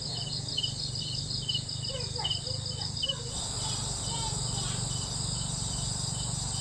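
Insects chirping, with a regular high chirp about three times a second. A higher, steady insect trill grows stronger about three seconds in, over a low steady hum.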